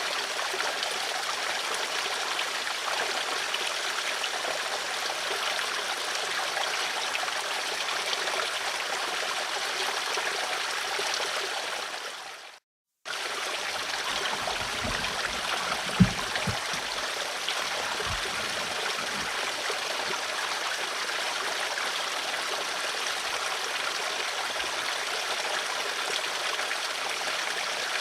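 Flowing water running steadily, like a stream. About 12 seconds in it fades out to a brief silence and then starts again abruptly, like a loop splice. A few low thumps follow, with one sharp knock a little after halfway.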